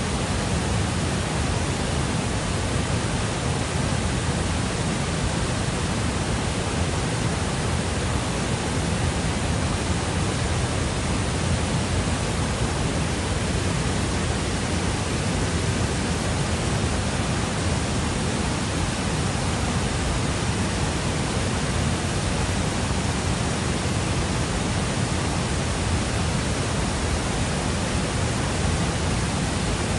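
Steady, even rush of fast-flowing water, like a river or waterfall close by.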